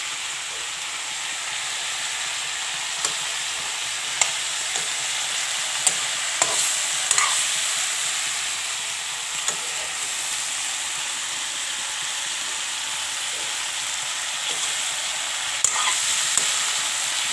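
Cauliflower sabzi frying in oil in an iron kadai, a steady sizzle, with a few sharp clicks through it.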